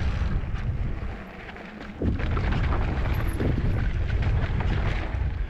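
Wind buffeting the microphone on a moving e-bike, a deep rumbling noise that drops away for about a second in the middle and then comes back suddenly.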